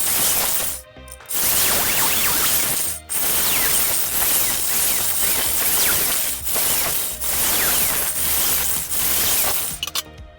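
Power tool working sheet steel on the car's floor pan: a loud, harsh, steady hiss broken by brief pauses about one, three and ten seconds in.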